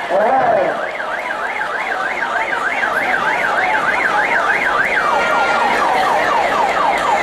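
Electronic vehicle siren in a fast yelp, rising and falling about four times a second; about five seconds in it switches to a pattern of quick falling sweeps.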